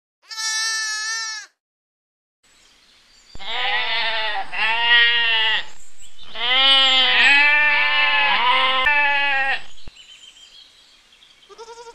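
Domestic goats bleating: one call about a second in, then after a pause a long run of quavering, overlapping bleats, and a brief bleat near the end.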